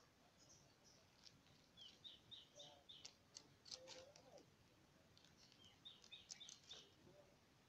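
Near silence with a bird calling faintly: two runs of about five quick, high chirps a few seconds apart. A few faint clicks come from the marble gun being handled.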